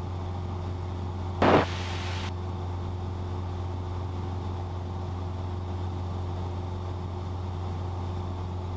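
Cessna 172's engine and propeller heard as a steady low drone inside the cabin. About a second and a half in there is a short, loud burst of sound on the intercom, with a brief rise in hiss.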